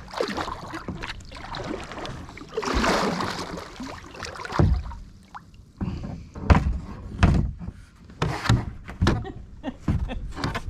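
Kayak paddling: water splashing from paddle strokes, then a series of dull knocks, typical of a paddle bumping the kayak's hull.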